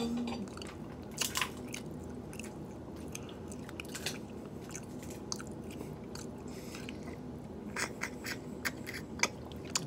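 A person eating seafood close to the microphone: chewing and biting, with scattered sharp crunches and clicks, more of them near the end, over a steady low hum.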